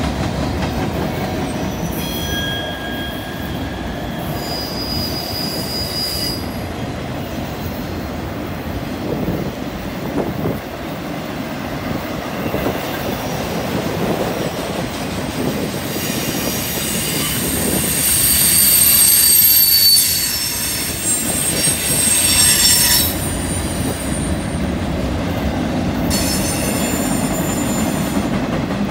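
Freight cars rolling past on a curve: a steady rumble of steel wheels on rail, with high-pitched wheel squeal from the flanges grinding the rail on the curve that comes and goes, loudest for several seconds past the middle.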